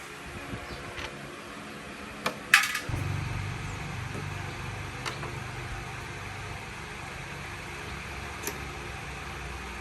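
Metal tools clinking: a few sharp clinks, the loudest about two and a half seconds in, over a steady low hum that comes in about three seconds in.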